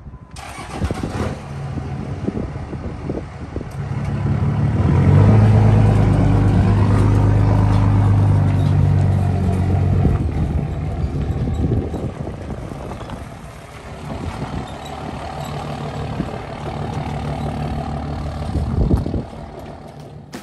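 Tow truck engine running as the truck pulls away. It grows louder from about four seconds in and eases off after about ten seconds.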